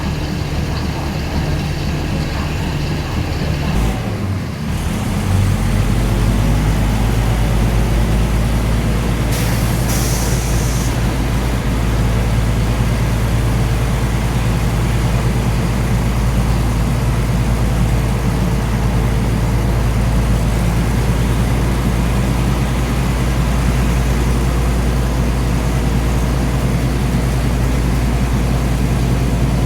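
Diesel train's engine running with a steady low drone. About four seconds in, the sound dips, then comes back louder and holds as the train runs on. There is a brief hiss about ten seconds in.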